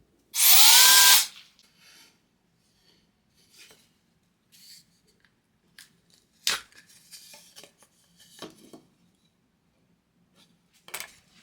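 Power drill run for about a second, its motor whine rising as it spins up and then holding. Scattered sharp clicks and light knocks follow.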